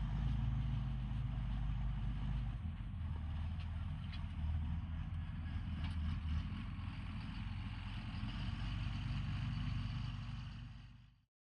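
John Deere 7800 tractor's six-cylinder diesel engine running steadily under load while pulling a disc harrow, fading out near the end.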